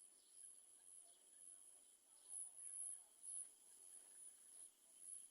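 Faint, high-pitched insect chirring that pulses unevenly and swells a little between about two and three and a half seconds in.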